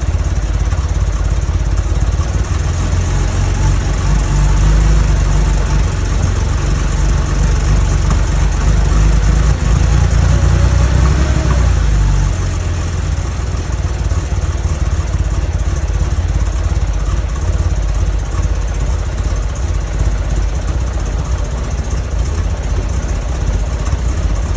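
Porsche 911SC's air-cooled 3.0-litre flat-six running at idle, a steady low drone that is a little louder in the first half and eases down about halfway. The engine has vacuum leaks.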